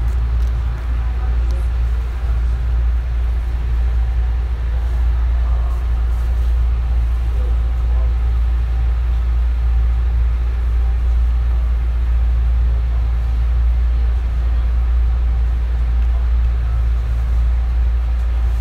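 JR 221 series electric multiple unit running steadily at speed, heard from on board: a steady low rumble of wheels on rails and running gear.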